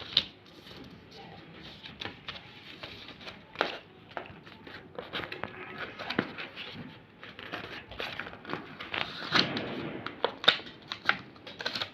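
A sheet of paper being handled and folded by hand, with irregular crinkles and sharp crackles as it is creased.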